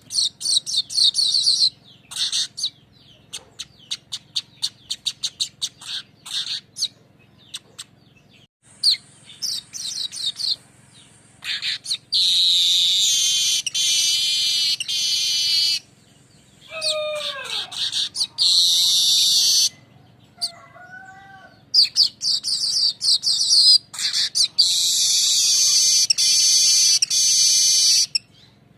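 Manyar weaver song: a run of quick, dry ticking clicks, then long, high, buzzy rolling trills repeated several times, with a few short falling calls between them.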